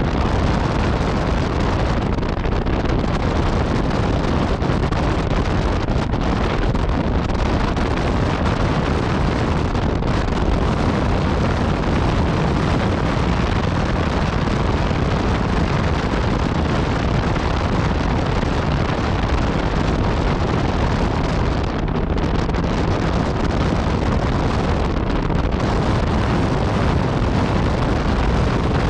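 Yamaha MT-09 Tracer's three-cylinder engine and Akrapovic exhaust running while riding at speed, with heavy wind noise on the microphone.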